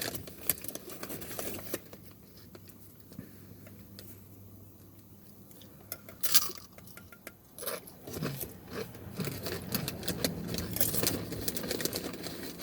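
Chips being bitten and chewed close to the microphone: scattered crunches and crackles, with a louder crunch about six seconds in. A low rumble comes in during the last few seconds.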